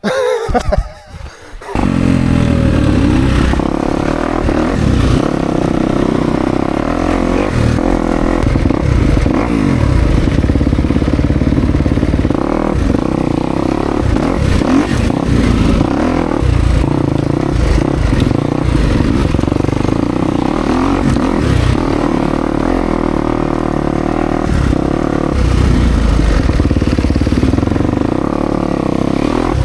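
Kawasaki KX250X dirt bike's single-cylinder four-stroke engine running hard over rough trail, starting abruptly about two seconds in, its revs rising and falling as the throttle is worked.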